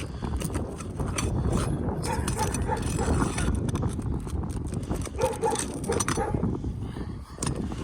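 Scraping and clicking as asphalt shingles are pried up to get their nails out, over a steady low rumble. A few short pitched calls come through about two and five seconds in.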